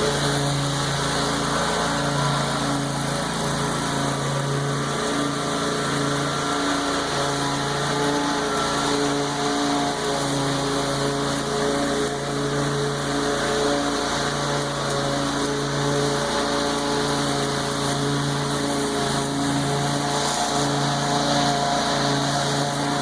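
Lawn mower engine running steadily while mowing overgrown tall grass, its pitch wavering slightly now and then.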